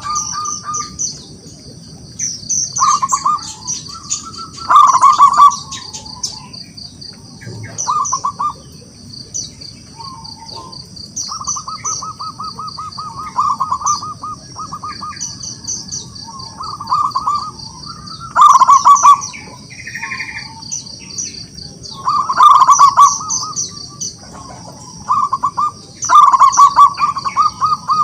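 Zebra dove (perkutut) cooing: loud phrases of rapid staccato coos repeated again and again with short pauses, some drawn out into long even runs. Behind it runs a steady high-pitched whine with quick high chirps.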